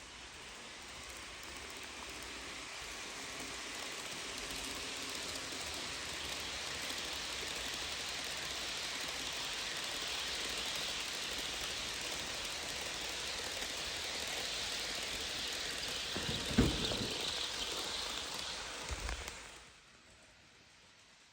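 A train rolling past, a steady rushing noise that builds over the first few seconds. Two low thumps come near the end, and then it cuts off suddenly.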